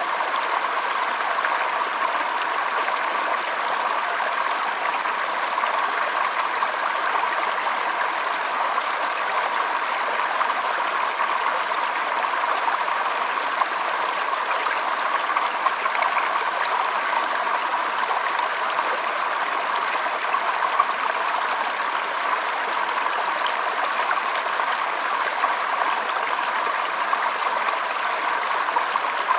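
Shallow stream flowing and trickling over stones, a steady even babble with small splashes here and there.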